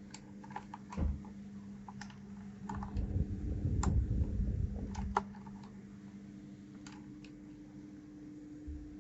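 Scattered plastic clicks and taps from a 1st Player DK 5.0 mechanical keyboard as its keycaps are handled and pressed, with a low handling rumble from about three to five seconds in. A steady low hum runs underneath.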